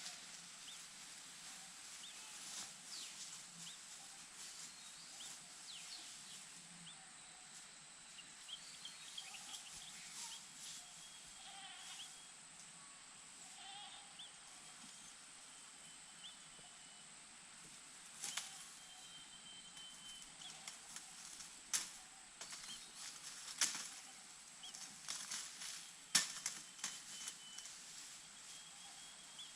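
Faint rustling and scraping of chicks moving in a small nest, with a few sharp rustles in the second half, and soft high chirps over a steady high hiss.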